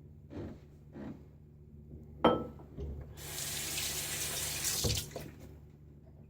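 Sink tap running for a little under two seconds, starting about three seconds in. A few light knocks and a sharp click come before it, and a knock as it stops.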